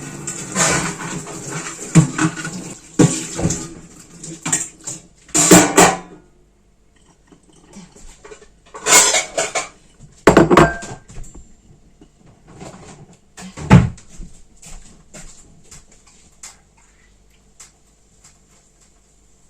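Dishes, pots and utensils being handled: clinks and clatter, busiest in the first six seconds, then a few separate loud knocks about nine, ten and a half and fourteen seconds in.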